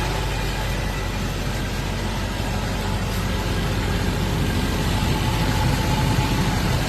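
1985 Cadillac Eldorado's HT 4100 V8 idling steadily, a low, even engine sound.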